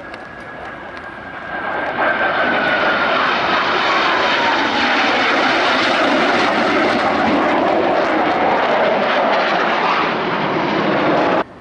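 F/A-18 Hornet jet flying past, loud engine noise that swells about two seconds in, with a whine falling steadily in pitch as it goes by. The noise cuts off abruptly near the end.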